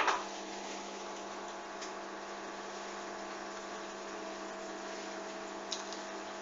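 Hoover washing machine's drain pump switching on with a click, then humming steadily as it drains water from the drum.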